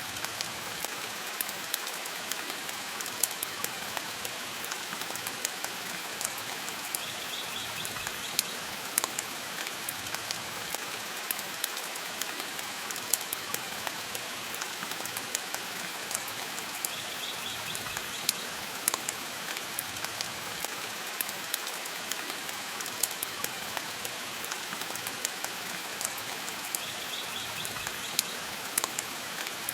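Steady rain hiss with a wood fire crackling, its sharp pops coming irregularly a few times a second.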